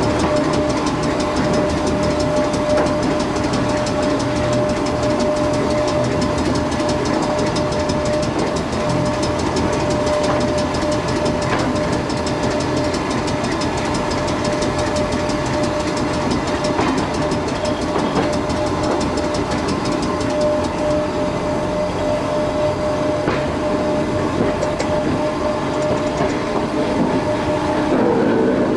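Class 411 4-CEP slam-door electric multiple unit running slowly, heard from an open carriage window: a steady rumble of wheels on rails, a steady whine, and a few wheel clicks.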